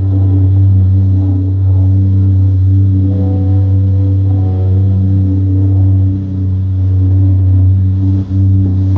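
Jet ski engine running at a steady cruising speed, a loud, even drone that dips briefly about eight seconds in.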